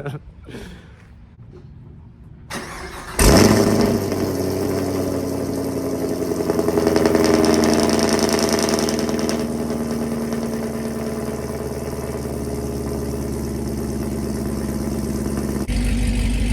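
Chevrolet Camaro SS V8 cold start through a catless exhaust: the starter cranks briefly, the engine catches with a loud burst about three seconds in, then settles into a steady idle. The sound gets deeper near the end.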